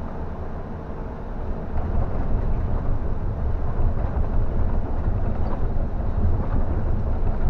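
Scania K360 bus running on a wet road, heard from inside: a steady low engine and road rumble that gets louder about a second and a half in.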